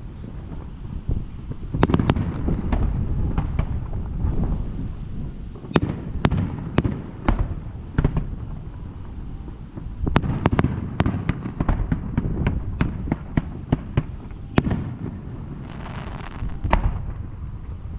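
Fireworks going off: deep booms of shells bursting overhead with rolling echoes, among many sharp crackling reports. The densest volleys come about two seconds in, again around ten seconds, and near the end, where a short hiss runs under them.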